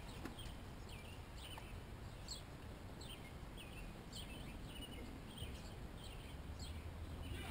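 Small birds chirping: repeated short, high calls that each slide down in pitch, about two a second, over a faint low background rumble.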